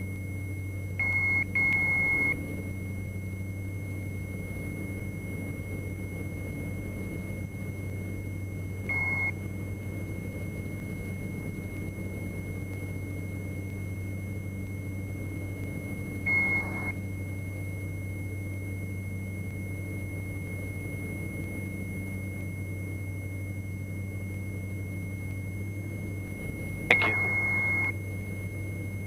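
Stall warning tone of a Diamond DA42 NG sounding in short beeps over the steady drone of the twin engines heard through the headset intercom. It sounds twice near the start, once around a third of the way in, once past the middle, and for about a second near the end: the aircraft is hovering at the edge of a stall in slow flight.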